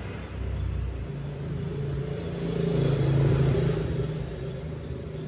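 Yamaha Nouvo 6 scooter engine running, revved up briefly about three seconds in and then easing back.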